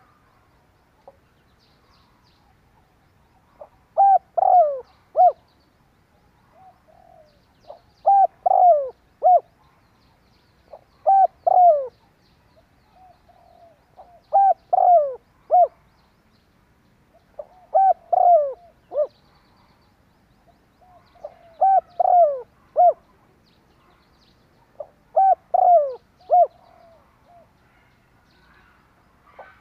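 Spotted dove cooing: short phrases of about four notes, each note falling in pitch, repeated about every three to four seconds, seven phrases in all. This is the male's territorial song, the call used to provoke and draw in wild doves.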